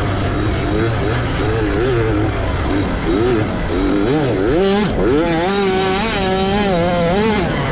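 A 65cc two-stroke motocross bike's engine revving up and down as it is ridden hard. About five seconds in the revs climb steeply and hold high, then drop off just before the end.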